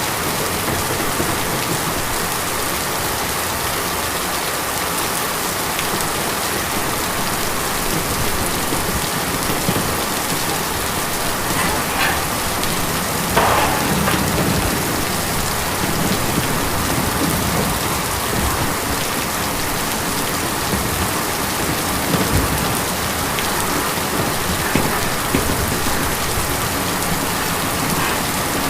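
Steady rain falling on tin, with a few louder single drop strikes, the loudest about halfway through.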